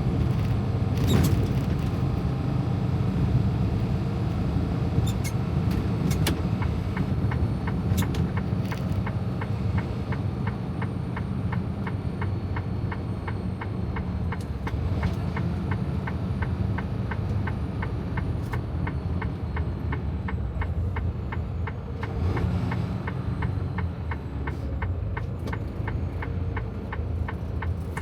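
Low steady rumble of a semi-truck's diesel engine heard inside the cab, and from about six seconds in the turn signal ticking evenly, a few ticks a second, ahead of a turn at a stoplight.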